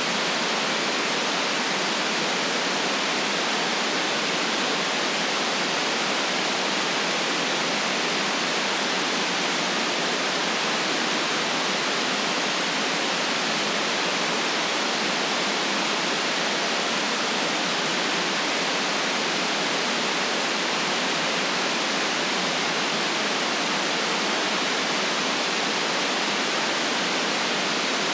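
Steady synthetic white noise: an even, unchanging hiss with no deep rumble and no top treble.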